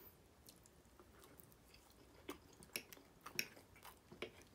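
Faint close-up chewing of a mouthful of soft pancake, with a few short sharp mouth clicks and smacks in the second half.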